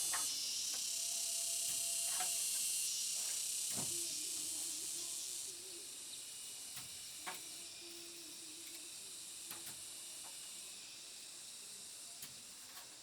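Insects droning steadily at a high pitch, growing quieter in steps, with a few light clicks or knocks scattered through.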